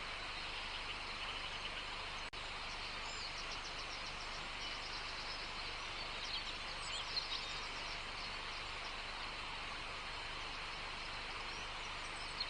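Outdoor nature ambience: a steady hiss of background noise with small birds chirping in quick trills through the middle, and a brief dropout a couple of seconds in.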